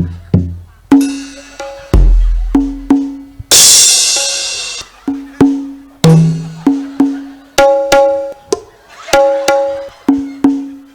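Kendang hand drums playing a quick pattern of sharp strokes: deep booming bass hits near the start and higher ringing pitched taps throughout, with one cymbal crash about three and a half seconds in.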